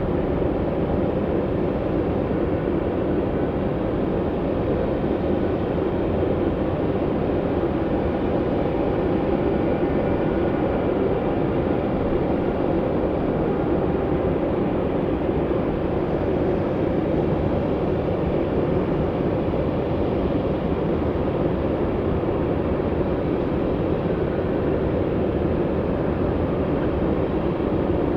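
Jet airliner engines running, a steady rumble with a faint high whine over it.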